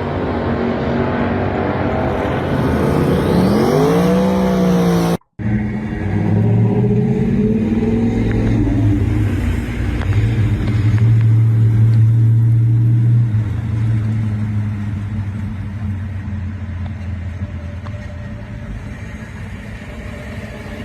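Muscle car engine revving up and back down once, then, after a sudden brief cut in the sound, a deep steady engine rumble that slowly fades.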